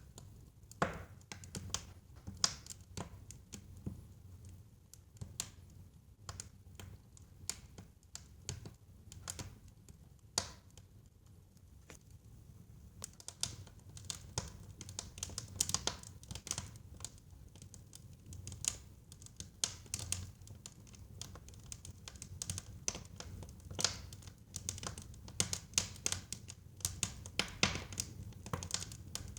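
Wood fire crackling in a fireplace: irregular sharp pops and snaps over a low steady rumble of the flames, the pops coming thicker in the second half.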